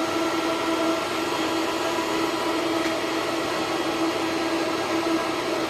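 Homemade waste oil burner running: a steady rushing noise with a constant hum, unbroken throughout.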